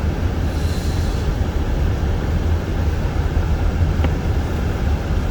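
Car driving on a snow-covered, unplowed road, heard from inside the cabin: a steady low rumble of tyre and road noise with engine hum.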